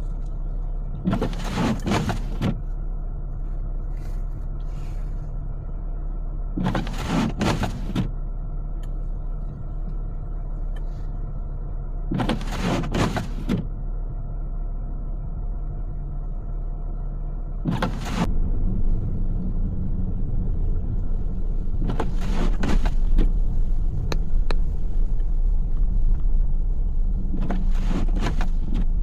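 A car's cabin filled with steady engine and road rumble, while the windshield wipers, set on intermittent, sweep across the glass about every five to six seconds.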